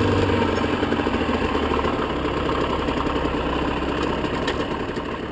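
Aprilia RS 50's two-stroke single-cylinder engine idling, getting gradually quieter toward the end.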